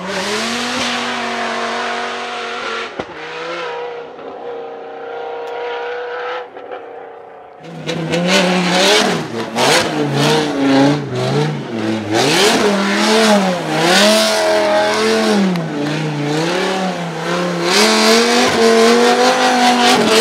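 Twin-turbocharged 8.3-litre V10 of a Dodge Viper SRT10 drift car, first holding a steady high note as it slides away, fading near the middle. Then, louder, the engine revs up and down in waves about once a second while the rear tyres spin and smoke in donuts.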